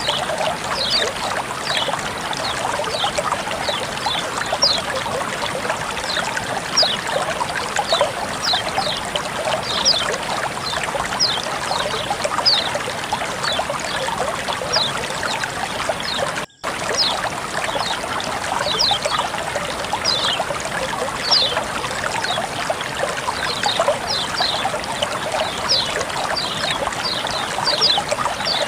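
Water flowing and trickling steadily, a continuous rush with many short, high plinks over it. The sound cuts out for an instant about sixteen seconds in.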